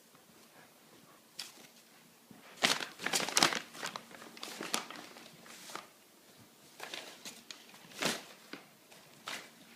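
An Akita puppy playing with a bear toy: irregular rustling and crinkling, loudest in a cluster about three seconds in and again near the end.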